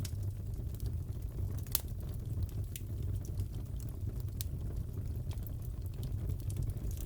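Wood fire crackling in a fireplace: a steady low rumble of flames with scattered sharp pops and snaps, the loudest pop just under two seconds in.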